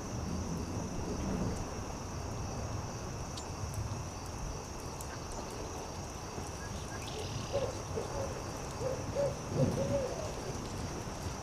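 An owl hooting a run of short notes in the second half, over the faint crackle and low rumble of a campfire.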